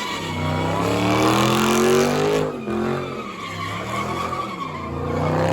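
Car engine revving hard in rising surges that fall back and climb again, with tyre screech over it, as in a burnout or donut.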